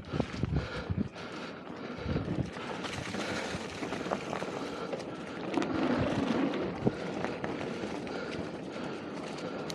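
Mountain bike riding down a dirt singletrack trail: a steady rush of tyre and wind noise, broken by scattered clicks and knocks as the bike rattles over the ground.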